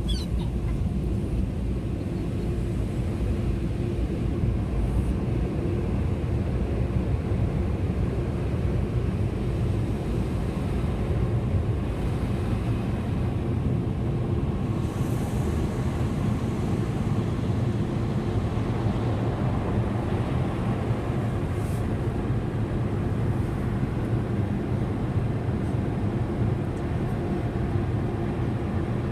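Automatic car wash dryer blowers running, a steady loud roar heard from inside the car.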